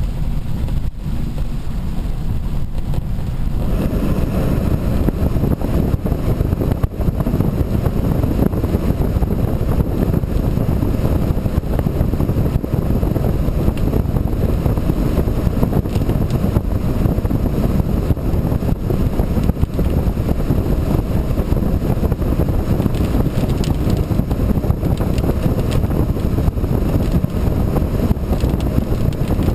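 Steady low rumble of wind buffeting the microphone, mixed with the noise of a moving vehicle; it grows fuller about four seconds in.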